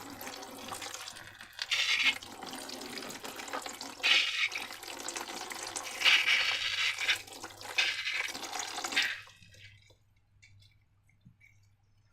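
Liquid pouring and gushing in uneven surges, with several louder spurts, stopping about nine seconds in.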